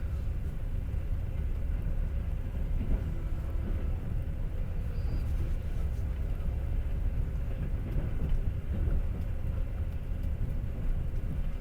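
Passenger train under way, heard from inside a carriage: a steady low rumble of the wheels on the rails and the running gear.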